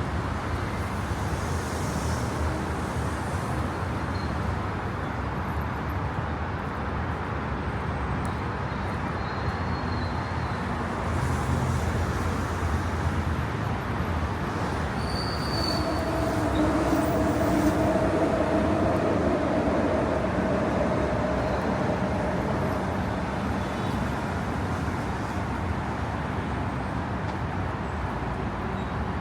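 City ambience with a steady rumble of traffic. Midway through, a passing vehicle hums louder for several seconds, then fades.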